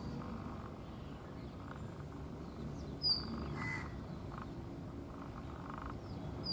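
Brown rock chat calling: a short, high, slightly falling note repeated about every three seconds, once about three seconds in and again at the end, over steady low background noise.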